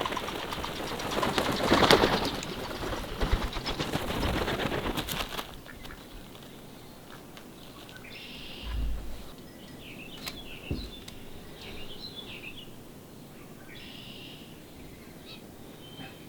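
Mallard wings flapping hard in rapid strokes for about five seconds, loudest about two seconds in, as the ducks take off. Short bird chirps follow.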